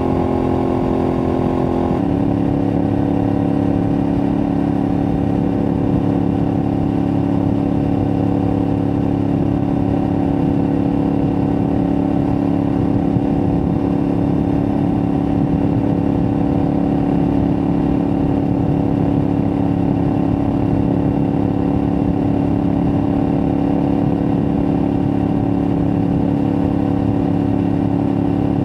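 Aprilia Tuareg 660's parallel-twin engine running through a replica Akrapovič exhaust at steady cruising revs. The engine note changes once about two seconds in, then holds at an even pitch.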